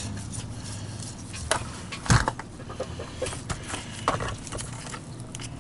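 Clicks and knocks of hard plastic parts being handled on a workbench while a vacuum power head is taken apart, with one louder knock about two seconds in.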